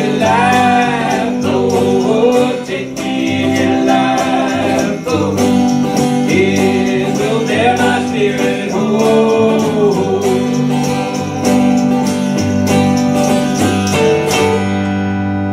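Live worship band playing the end of a gospel song: guitar and bass chords in an even pulse under a wavering melody line, settling onto a held chord near the end.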